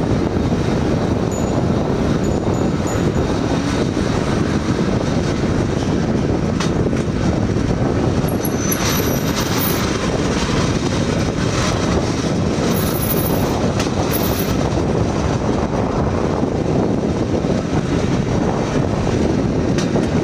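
Steel wheels of a pedal rail bike rolling along railway track: a steady rumble with a few clacks in the middle as the wheels pass over rail joints.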